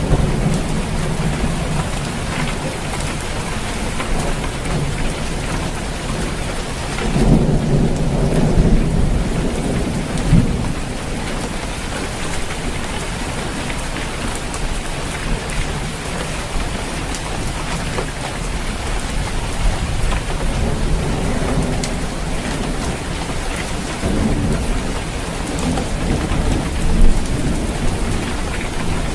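Steady rain falling on a roof, with low rumbles of thunder swelling about seven seconds in and again near the end.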